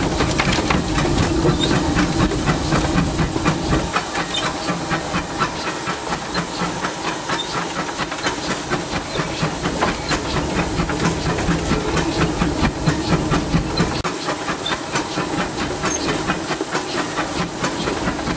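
Steam locomotive under way, heard from inside the cab: a steady hiss of steam over rapid, regular beats. A low rumble underneath drops away about four seconds in.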